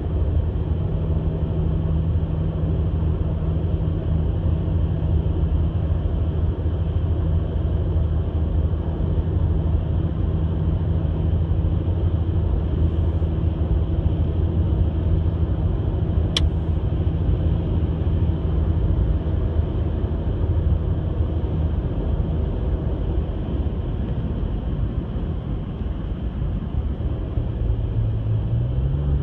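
A vehicle engine running with a steady low drone. There is a single sharp click about sixteen seconds in. The low hum fades after about twenty seconds, and a slightly rising one comes in near the end.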